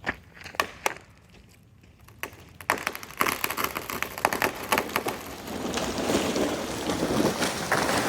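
Wood cracking and splintering as a cut tree section breaks and comes down: a few sharp cracks, a short pause, then a rapid crackle of snapping wood that builds into a continuous rush of branches and foliage thrashing.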